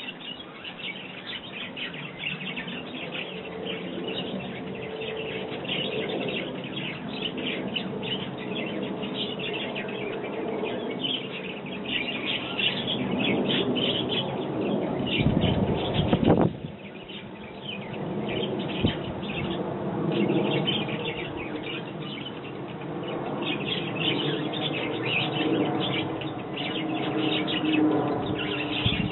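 Sparrows chirping continuously in a busy chorus of rapid chirps. A louder low rumble builds midway and cuts off abruptly.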